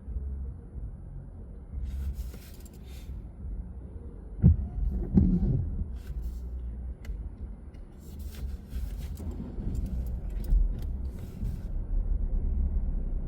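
Car driving: a steady low road rumble, with a sharp knock about four and a half seconds in and a few brief swells of hiss.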